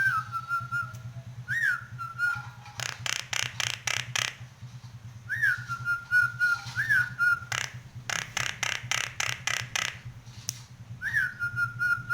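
Nias hill myna whistling: a quick rising-and-falling note followed by a level held whistle, repeated several times. Between the whistles come bursts of loud, rapid clicking notes. A steady low hum runs underneath.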